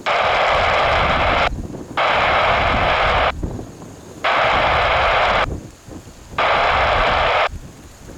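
Airband radio scanner giving bursts of loud static hiss, each a little over a second long, that switch on and off sharply four times with no voice in them, over a low rumble.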